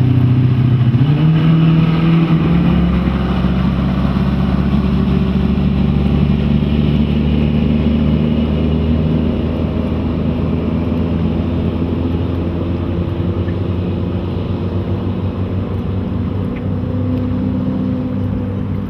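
Twin Volvo Penta 5.7-litre fuel-injected V8 sterndrive engines of a cruiser under way on the water, picking up revs about a second in and then running steadily.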